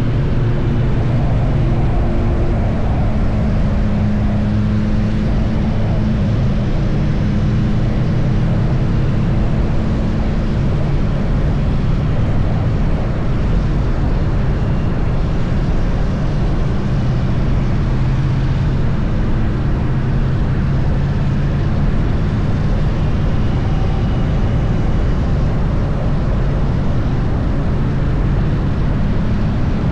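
Triumph Bonneville T100's parallel-twin engine droning steadily at cruising speed, with a constant rush of wind and road noise and no gear changes or revving.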